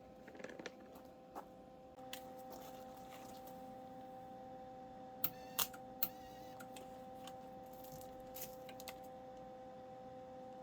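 A steady, faint hum that steps up in level about two seconds in, with scattered light metallic clicks and taps. Three sharper, ringing clinks come about five to six seconds in.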